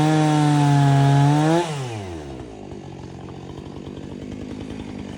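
Chainsaw running at full throttle, its pitch rising slightly. About a second and a half in, the throttle is let off and the engine winds down steeply to a low, rapidly pulsing idle.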